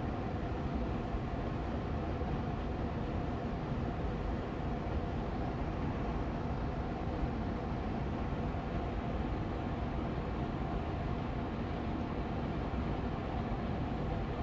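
Air purifier fan, an Austin Air allergy machine, running on medium speed: a steady, even rush of air with a low hum and faint steady tones under it.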